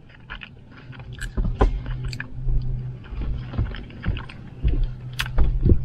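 Close-up chewing and wet mouth sounds of someone eating animal style fries, cheese- and onion-topped fries, with scattered clicks and smacks. A steady low hum runs underneath.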